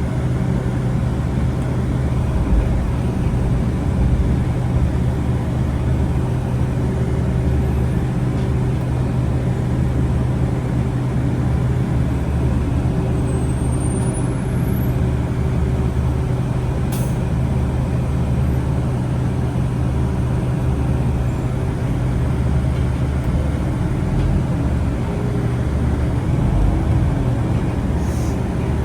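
A city bus running, heard on board: a steady low hum over an even rumble, unchanging throughout.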